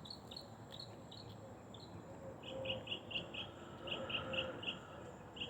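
A bird chirping: runs of short, high, evenly spaced notes, about five a second, with a short break between runs, over faint outdoor background noise.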